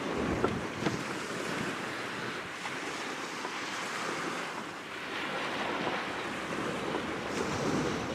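Wind blowing across the microphone over waves washing on the shore: a steady rushing with two light knocks about half a second and a second in.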